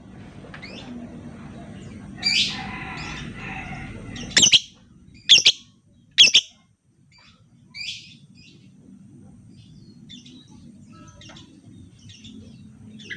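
Lovebird calling: a harsh squawk about two seconds in, then three sharp, shrill chirps about a second apart, a softer chirp near eight seconds, and faint small chirps after that.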